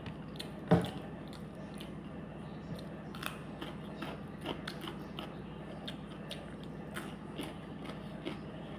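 A person eating close to the microphone: scattered crisp clicks of chewing and crunching, with one loud knock about a second in, over a steady low hum.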